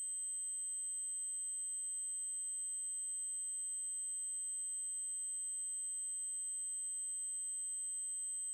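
A steady, high-pitched 8192 Hz triangle-wave test tone, held unbroken at one pitch.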